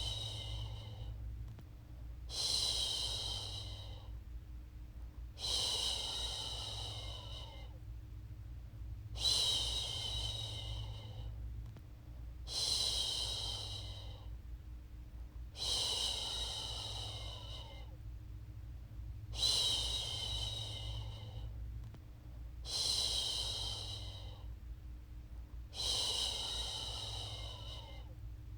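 A woman's voice shushing, a long soft "shhh" repeated about every three and a half seconds, made to soothe a baby to sleep. A steady low hum runs underneath.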